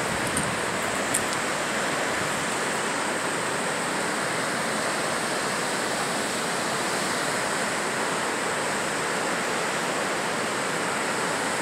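Steady rushing of the Kootenai River's fast current, an even wash of water noise, with a couple of faint clicks in the first second or so.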